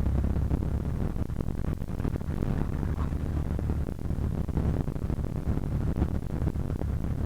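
Cessna 152's four-cylinder Lycoming engine and propeller making a steady low drone in the cockpit.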